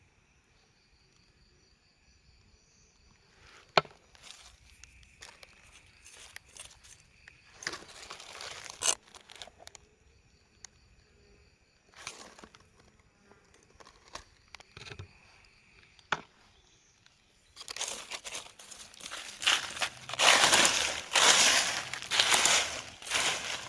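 Rustling and crinkling of something being handled, scattered at first, then loud and dense for the last six seconds. Under it, a faint steady high buzz like insects.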